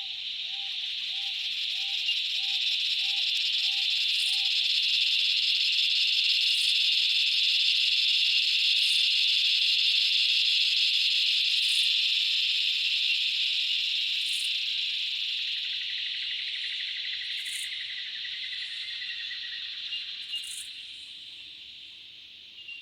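Chorus of Razor Grinder cicadas (Henicopsaltria eydouxii) droning loudly, swelling to a peak about eight to ten seconds in and then fading away, a wave of sound moving through the forest. A quick series of short low calls repeats about twice a second over the first few seconds.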